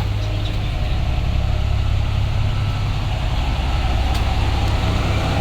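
International MaxxForce DT 7.6-litre inline-six turbo-diesel in a 2009 school bus, running steadily with a deep, even low rumble.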